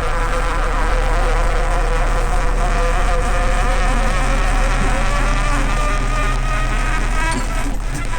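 A motor running with a buzzing whine over a steady low hum; the whine rises slowly in pitch through the second half.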